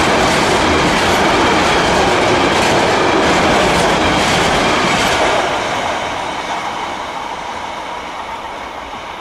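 Loaded container freight wagons rolling past close by at speed: a steady, loud rumble with wheel clatter on the rails. After about five seconds it fades as the end of the train moves away.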